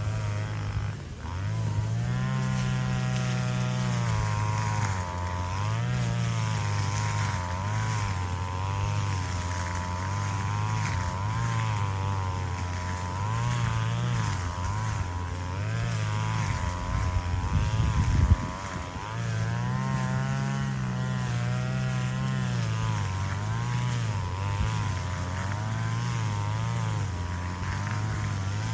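Petrol grass cutter running near full throttle while cutting grass, its engine pitch dipping and recovering again and again as the load changes. There is one sharp knock about two-thirds of the way through.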